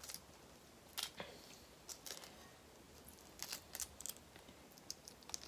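Faint, scattered sharp clicks and crackles, about a dozen, from eating and handling boiled seafood.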